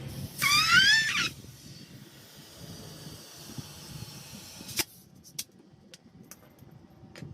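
A single animal call, about a second long, rising and wavering in pitch, followed by a few sharp clicks.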